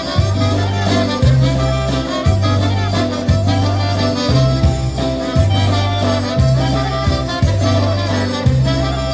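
Live polka band playing an instrumental break between sung verses of a Polish polka: brass horns carry the tune over a bouncing bass line and a steady beat.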